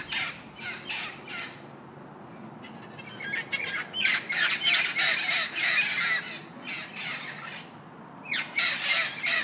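Mallard duck quacking: runs of harsh, rapid quacks, about three or four a second, in three bursts with short pauses between.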